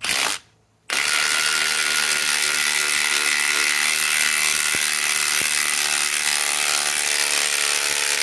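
Milwaukee M18 Fuel Gen 4 impact driver hammering a 10-inch lag screw into a pre-drilled hole. There is a short trigger pull, a brief pause, then steady, continuous impacting from about a second in. The lag is about the limit of what this tool can drive.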